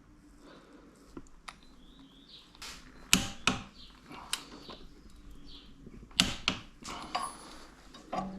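A string of sharp clicks and knocks, about seven in all and irregularly spaced, from metal parts and tools being handled during a scooter clutch rebuild. The loudest come about three seconds in and again about six seconds in.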